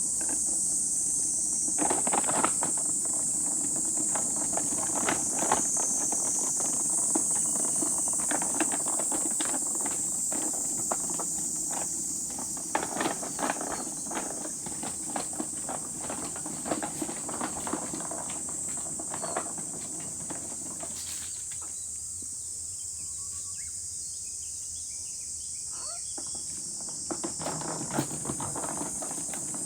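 A steady, high-pitched chorus of insects, with frequent short clicks, knocks and rustles close by that die away for several seconds near the end and then return briefly.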